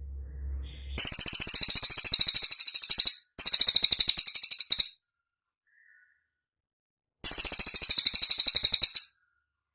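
A cililin singing: three long bouts of very rapid, high-pitched trilled chatter, starting about a second in, the last near the end, with short silent gaps between.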